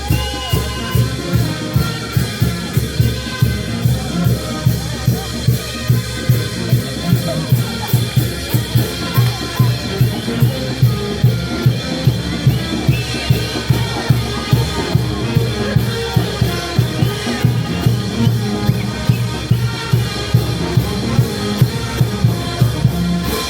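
A band playing music, driven by a steady drum beat of about two strokes a second.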